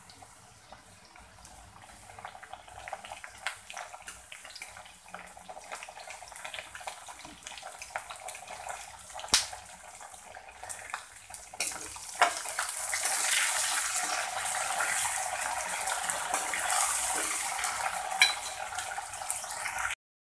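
Diced potatoes, peanuts and curry leaves sizzling in hot oil in a kadhai, a frying hiss that grows much louder about halfway through. There are a few sharp clicks along the way.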